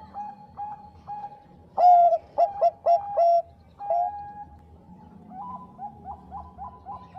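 Bangkok-type zebra dove (perkutut) cooing. A soft run of short, evenly spaced coos gives way about two seconds in to a loud phrase of several coos, each dipping slightly in pitch. One more loud coo comes near four seconds, and the rapid short coos resume about five and a half seconds in.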